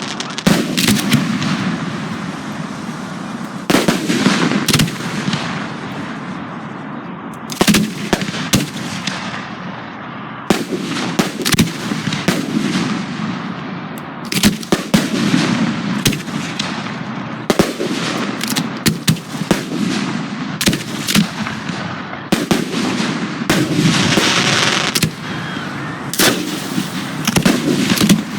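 Aerial fireworks display: electronically fired shells and cakes launching and bursting in rapid, irregular succession. Dozens of sharp reports overlap, many of them trailing off in a long rumbling tail.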